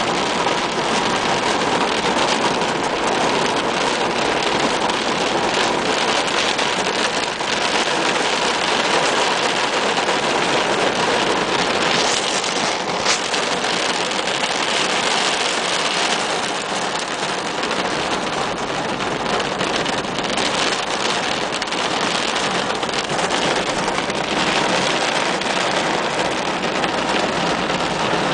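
Heavy rain falling steadily, a continuous even hiss, with one sharp tick about halfway through.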